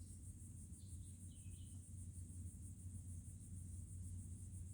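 Crickets trilling in a steady, high-pitched chorus over a faint low rumble, with a brief faint chirp about a second in.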